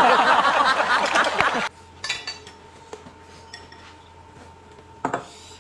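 Clattering of dishes and cutlery for about a second and a half, then a few light clinks and a single knock near the end.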